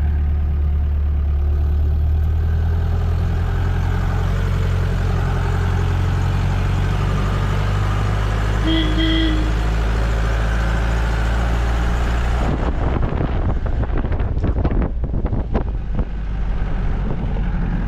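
Vehicle engine running with a steady low drone, a short beep about nine seconds in. After about twelve seconds the drone gives way to irregular knocks and rumbling.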